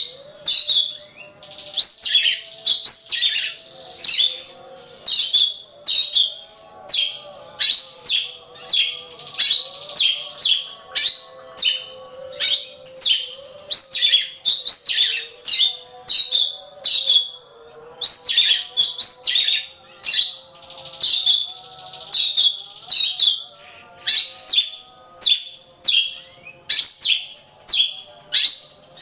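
Oriental magpie-robin (kacer) singing: a fast, continuous run of sharp, high notes, each sweeping downward, about two or three a second.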